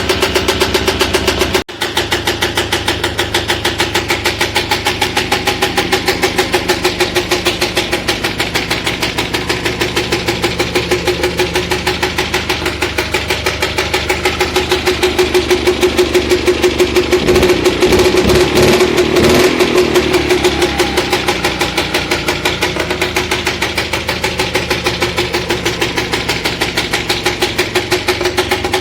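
Two-stroke single-cylinder TMZ engine from a Muravey cargo scooter running on a homemade walk-behind tractor, with a fast, even pulsing beat. It cuts out for an instant about two seconds in and runs louder for several seconds past the middle before settling back.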